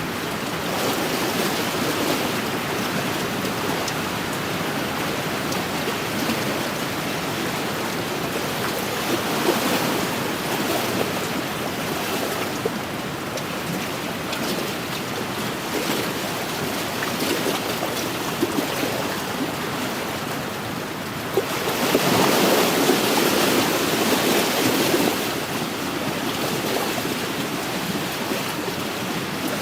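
Small wind-driven waves lapping and splashing against a lakeshore, with wind in the background; a louder surge of waves about two-thirds of the way through.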